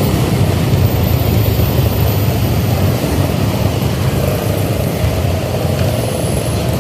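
Motorcycle running steadily while being ridden, a continuous low engine rumble mixed with road noise.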